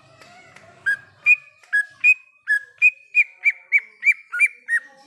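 Cucak ijo (green leafbird) singing a run of about a dozen loud, clear whistled notes. The notes alternate between a lower and a higher pitch and come slightly faster toward the end.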